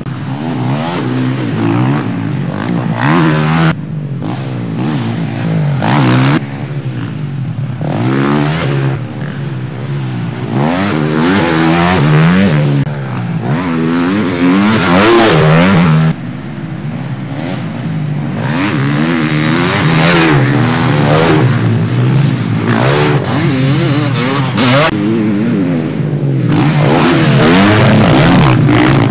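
Motocross bikes racing on the track, their engines revving up and falling back over and over through the throttle and gear changes, getting louder as bikes pass close, several times.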